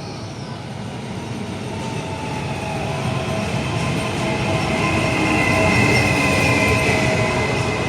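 Regional train pulling into a station platform, its rumble growing steadily louder. A high, steady squeal sets in about three seconds in as it slows.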